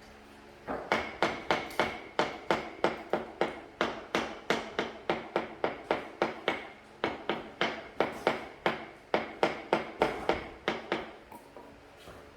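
Rapid, steady hammering: a long run of sharp blows, about three to four a second, with a slight ringing tone, stopping about a second before the end.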